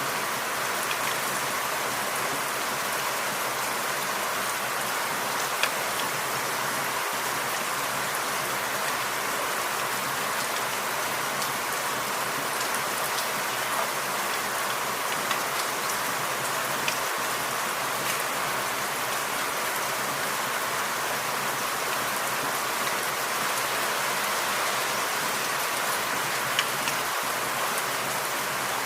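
Steady rain falling in a forest, an even hiss with scattered individual drops standing out.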